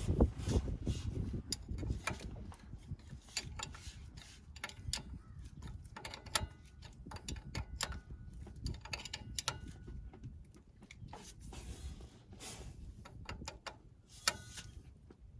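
Hand tools working on a van's driveshaft: irregular metallic clicks and knocks, like a ratchet wrench turning and tools touching metal, over a low rumble.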